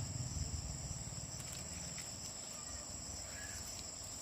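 Insects chirring in a steady, high-pitched drone, with a low rumble underneath that fades out about halfway through.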